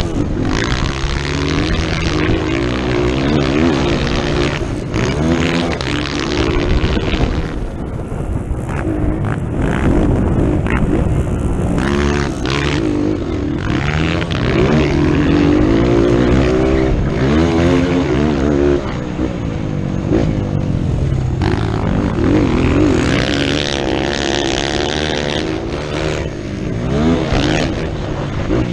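Motocross motorcycle engine revving hard and easing off again and again, its pitch climbing and dropping through gear changes, over a rush of noise.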